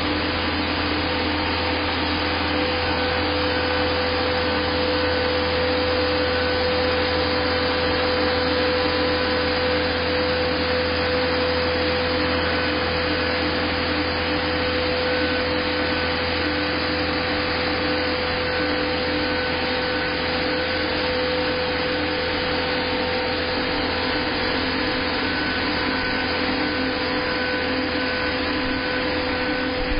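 Steady machine noise: a constant hum with a steady whine over it, unchanging throughout, and a faint tone that pulses on and off.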